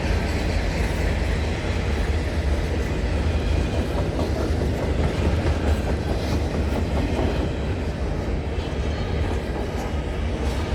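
CN intermodal container freight train's cars rolling past at close range: a steady rumble of steel wheels on rail, with faint clicks as the wheels cross rail joints.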